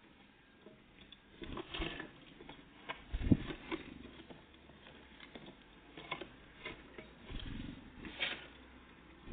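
Great tits and blue tits at a feeder, making irregular pecking taps and scrabbling clicks, with a louder knock about three seconds in.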